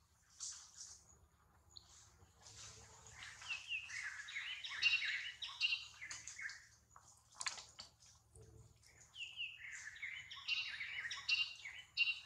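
Wild birds chirping and singing in two bouts of quick high notes, the first starting about two seconds in and the second from about nine seconds to near the end.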